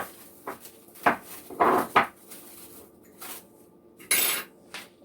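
Kitchen handling sounds: a sharp click, then a few short knocks and scrapes of dishes and utensils, and a brief high rustle a little after four seconds.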